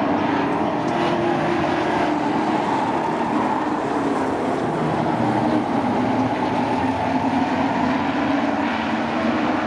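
Engines of a field of sport-class race trucks running at speed together on a short oval, a steady, even blend of engine sound.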